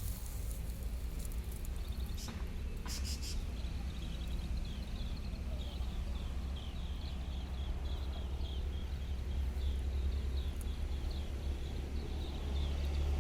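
Outdoor ambience: a steady low rumble, with a run of short high chirps repeating about twice a second from roughly four to twelve seconds in, and a couple of brief clicks early on.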